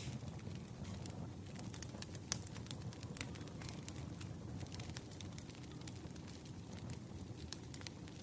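Wood fire crackling: irregular sharp snaps and pops over a low steady rumble.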